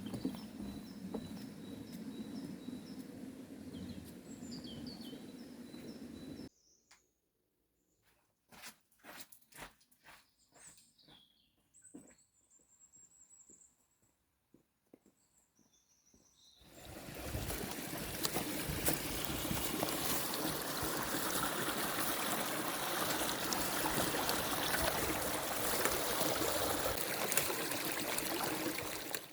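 Outdoor background with short high bird-like chirps, then a quiet stretch with a few clicks and chirps, then running water, steady and fairly loud, from about sixteen seconds in.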